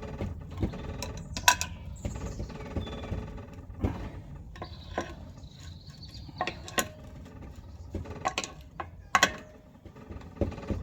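Spanner working the nuts of the engine's fuel tank flange: irregular sharp metallic clicks and clinks, some ringing briefly, as the fastenings are tightened evenly around the edge.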